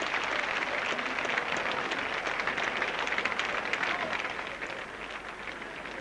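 Large cricket crowd applauding and cheering at the winning runs, a dense wash of clapping that eases a little after about four seconds. The sound comes from an old television broadcast recording.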